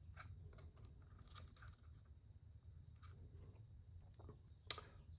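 Faint, scattered small clicks and taps of hands fitting plastic RC car parts and wiring, with one sharper click near the end, over a low steady room hum.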